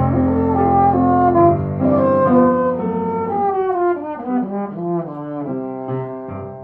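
Music: an ensemble, sounding like brass, playing held chords under a melody that steps downward through the middle, with shorter, more detached notes near the end.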